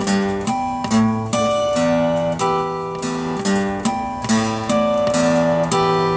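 Acoustic guitar strummed in a steady rhythm, about two strokes a second, with the chords changing every second or so.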